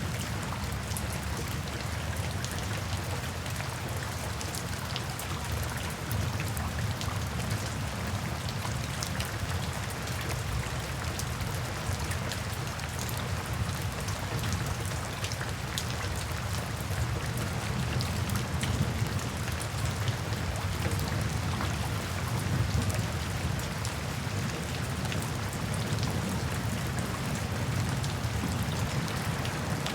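Steady rain falling, with scattered sharp crackles from a wood fire in a fireplace and a steady low rumble underneath.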